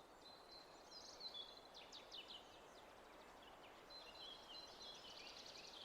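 Faint songbirds chirping and trilling over a soft, even hiss of background ambience.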